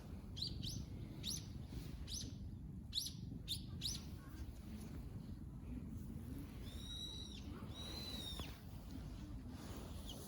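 Bird calls: a run of quick rising chirps, about two a second, for the first four seconds, then two longer arched calls a little past the middle, over a low steady background rumble.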